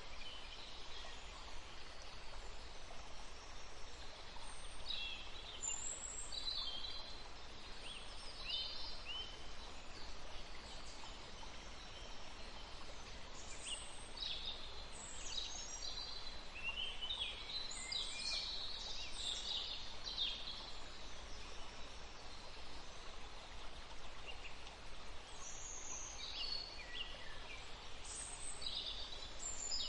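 Songbirds chirping and singing in scattered bursts, busiest around the middle, over the steady hiss of a forest stream.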